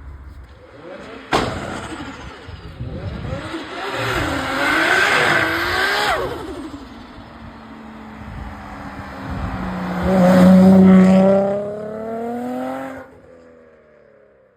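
Car engines revving hard as cars accelerate away, with a sharp crack about a second and a half in. The loudest part comes near the end: an engine pulling with rising pitch, then fading away.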